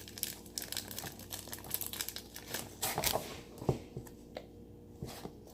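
Plastic packaging of slime-kit items crinkling as it is handled, with irregular small clicks and taps throughout.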